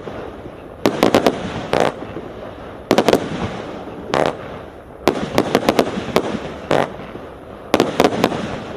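Multi-shot consumer firework cake (Hallmark Fireworks 'Annual Gala') firing: sharp bangs in quick groups of two to four, roughly every second or two, with crackling between the groups.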